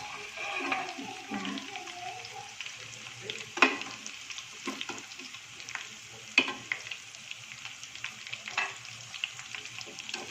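Chicken pieces deep-frying in hot oil, sizzling steadily. Three sharp clicks of a utensil against the pan stand out, roughly every two to three seconds.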